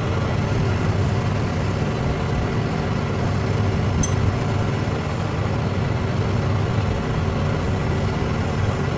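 A heavy engine running steadily, with a single light click about four seconds in.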